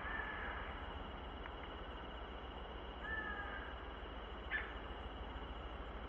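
Trail camera audio of woodland: a steady low hum and hiss, with two short bird calls, one at the start and one about three seconds in, and a faint tick later on.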